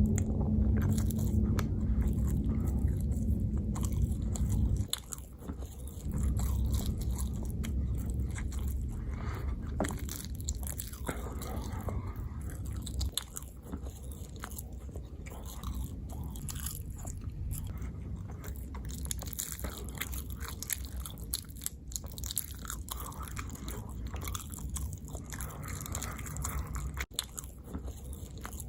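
Close-miked chewing and biting of food, with wet, crunchy mouth sounds throughout. A heavier low hum under the first few seconds drops away sharply about five seconds in.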